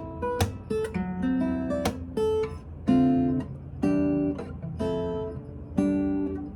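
Acoustic guitar being played: plucked chords and single notes that ring and decay, with a firmer chord struck about once a second.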